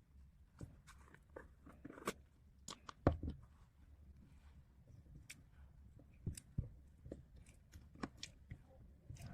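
Slime being squeezed and handled by hand, giving faint, irregular clicks, pops and crackles, with a louder cluster of pops about three seconds in.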